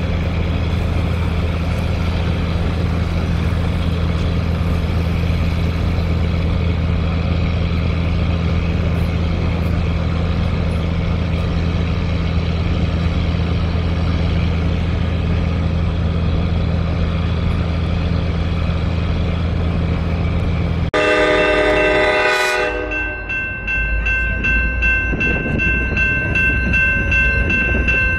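Diesel-electric locomotive, an EMD F40FH, running with a steady low engine drone. About two-thirds of the way through, the sound switches abruptly to its multi-tone air horn sounding, with the rumble of the moving train beneath. The horn blows again at the very end.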